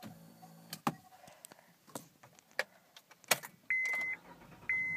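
Keys clicking and jangling at the ignition of a 2010 Honda Odyssey, with a brief low hum at the start. Near the end the dashboard warning chime begins, a steady high beep repeating about once a second, as it does before the engine is started.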